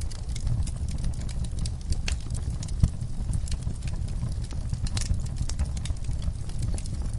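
Wood fire burning in a fireplace: a steady low rumble of the flames with irregular crackles and pops, one sharper pop about three seconds in.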